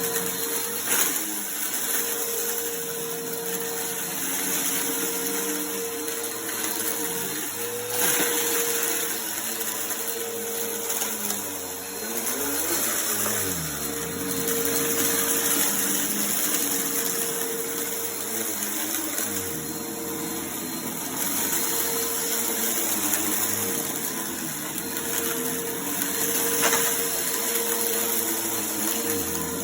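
Vacuum cleaner running on a rug, picking up confetti: a steady motor whine over a rushing hiss, with a lower hum that rises and falls every few seconds and a few brief clicks.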